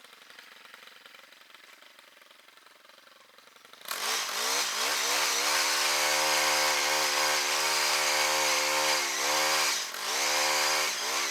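A gas-powered saw's small two-stroke engine, quiet at first, then throttled up sharply about four seconds in and held at full revs, with one brief dip in revs near the end.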